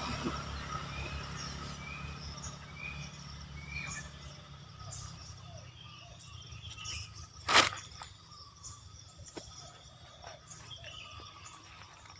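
Bird calls in forest: a run of short, evenly spaced chirps about once a second in the first few seconds, then scattered faint calls and ticks. A single sharp knock about seven and a half seconds in is the loudest sound.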